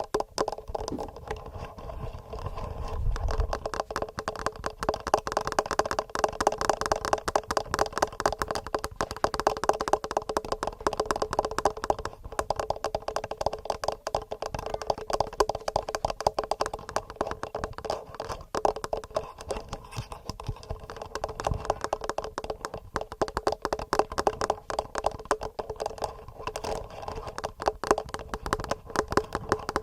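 Fingernails tapping quickly and regularly on a TASCAM recorder, picked up by its own microphones: a dense, unbroken run of small clicky taps. Duller low thumps come about three seconds in and again about twenty-one seconds in.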